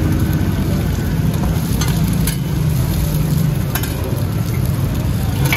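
Mussel-and-egg omelettes frying in shallow oil on a large flat iron pan, sizzling steadily over a low rumble. Metal spatulas clack against the pan a few times.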